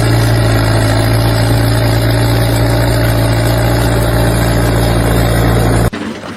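A loud, steady engine or machine running at an even pitch, cut off abruptly near the end.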